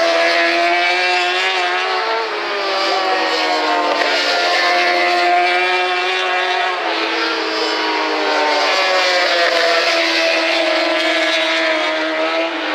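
Several 1000 cc superbike racing engines running hard at race pace, their overlapping notes falling and rising in pitch with throttle and gear changes.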